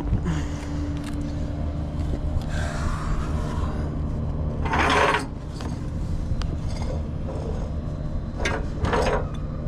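Steady low hum of an idling tow truck, with bursts of metal scraping and rubbing from the towing gear as a car is hooked up: one about halfway through and two short ones near the end.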